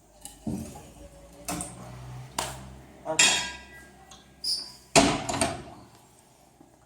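Logs and firewood being set into a fireplace to build a fire: about five separate knocks and clunks of wood.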